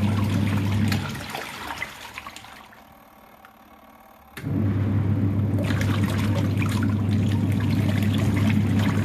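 Wash tub of a Roch 7 kg twin-tub washing machine running with a steady motor hum and churning water as it mixes detergent and bleach. It winds down about a second in, pauses for about three seconds, then starts up again sharply, as the wash timer alternates the pulsator's direction.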